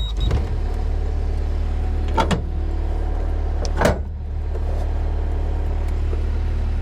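A machine's engine catches and settles into a steady idle. Two sharp knocks come about two and four seconds in.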